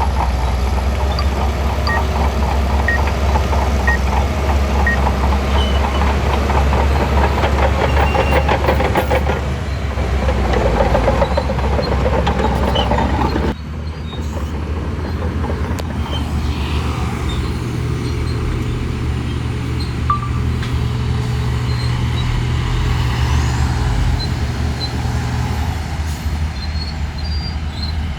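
Shantui bulldozer's diesel engine running steadily under work. The sound drops and changes abruptly about halfway through, then goes on at a steadier, lower drone.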